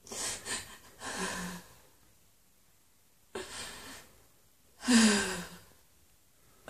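A woman's breathy sighs and gasps, four in all, the last and loudest ending in a low falling moan.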